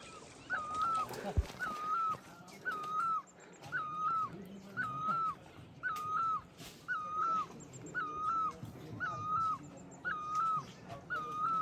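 An animal's short, high whining call repeated very evenly, about four calls every three seconds.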